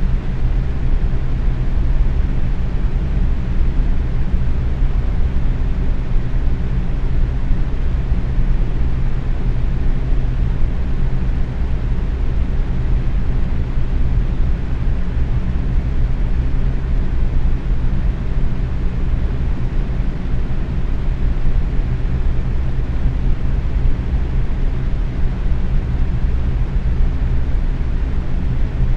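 Box fan running steadily at medium speed: a constant airy whoosh with a low hum from the motor and blades.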